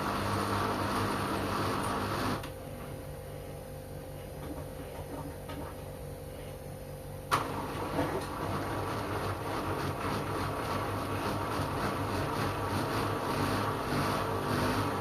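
LG washing machine running mid-cycle, a steady motor hum with a broad rushing noise. About two seconds in the rushing noise stops and only a quieter hum and a steady tone remain; a sharp click about seven seconds in, and the full running sound starts again.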